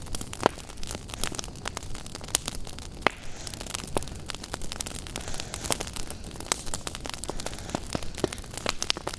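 Wood fire crackling in a fireplace: frequent sharp, irregular pops and snaps over a steady hiss.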